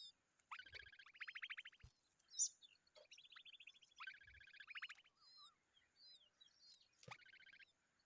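Common babblers calling: four bouts of harsh, rapid rattling calls, with thin high chirps between them. A single sharp click comes about two and a half seconds in.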